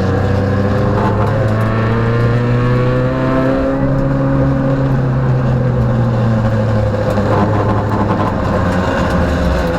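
Peugeot rally car's engine heard from inside the cabin under hard driving. The pitch climbs for about three seconds, drops sharply as it shifts or lifts, then rises and falls with the throttle.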